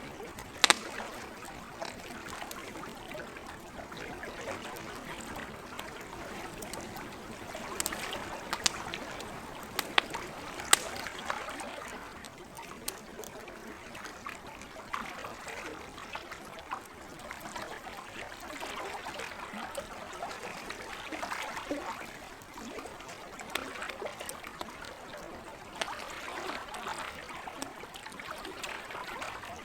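Campfire crackling, with sharp pops here and there (the loudest about a second in, a cluster around eight to eleven seconds), over a steady trickle of lake water.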